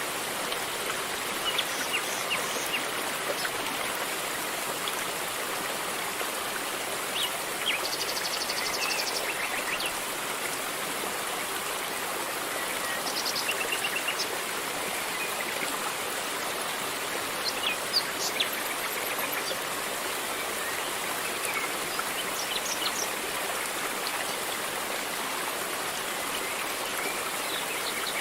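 River water flowing steadily over rocks, a constant rushing. Birds chirp now and then over it, with a quick trill about eight seconds in.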